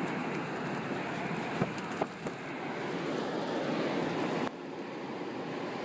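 Storm wind and rain rushing over the microphone during tornado footage, with a few sharp knocks about a second and a half to two seconds in; the sound drops suddenly near the end.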